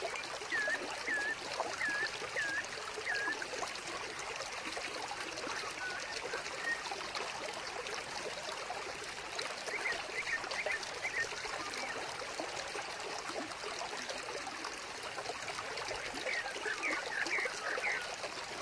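Small vivarium waterfall trickling steadily, with short runs of brief high chirps near the start, about ten seconds in, and near the end.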